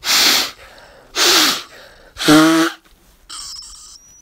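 A person blowing their nose in three short forceful blasts about a second apart; the third turns into a buzzing nasal honk. It is followed by a quieter high-pitched hiss with a thin whistle: the funny noise his nose makes on every blow.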